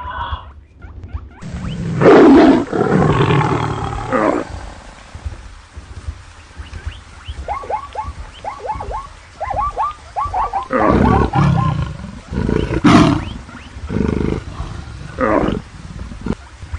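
Stampede sound effect: wild animals roaring, several loud long roars near the start and again in the second half, with a quick run of short high calls in between, over a steady low rumble.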